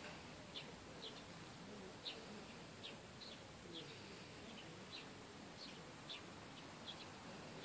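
A small bird chirping faintly, short high notes repeated about once or twice a second.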